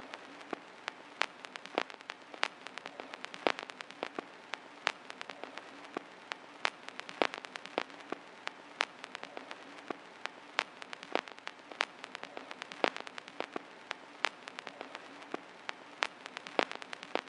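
Rain falling on a hard surface: a steady hiss with irregular sharp drop impacts several times a second.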